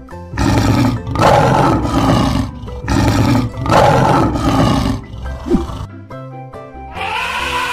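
Lion roaring twice, each roar about two seconds long, over background music.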